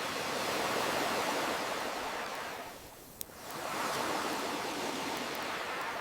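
Ocean waves washing in, two swells with a dip between them, and a single sharp crackle of a wood campfire about three seconds in.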